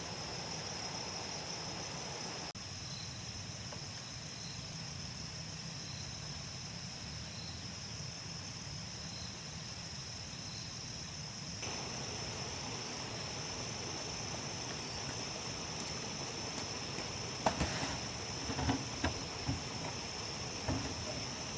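Insects chirring in a steady high drone over a low rumble. A few knocks and thuds come near the end.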